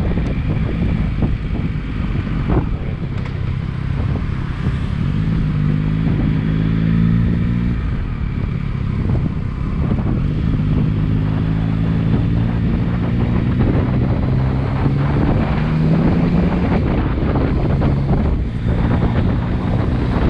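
Motorcycle engine running while riding at road speed, its note climbing slowly and dropping back a couple of times, with wind noise on the microphone.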